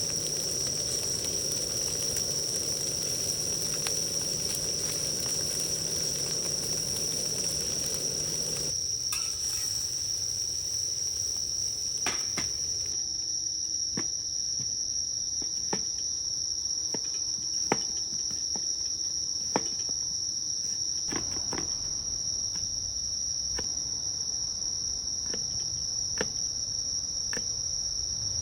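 A chorus of crickets keeps up one steady, high-pitched trill. A low rushing noise underneath stops abruptly about nine seconds in. After that, scattered sharp clicks and ticks come every second or two.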